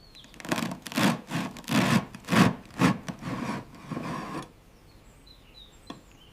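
A run of about eight rubbing or scraping strokes, roughly two a second, that stops a little over halfway through.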